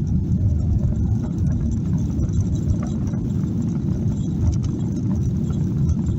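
Boeing 737-800 at takeoff thrust heard from inside the rear cabin: the CFM56-7B engines and airframe make a steady, loud deep rumble, with light scattered rattles and knocks from the cabin fittings.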